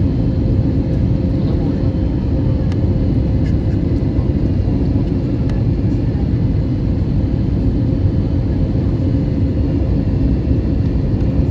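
Cabin noise inside an Airbus A320neo: a steady, even rumble of the engines and rushing air, with a faint steady hum in it.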